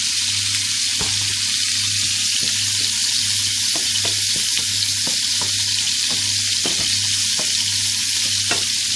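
Leberkäse patties frying in a pan: a steady sizzle with scattered pops and spits.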